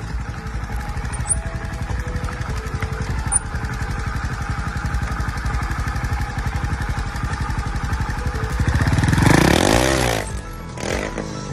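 Trials motorcycle engine putting along at low revs as the bike climbs over rock, then revved up sharply and let back down about nine seconds in. Background music plays underneath.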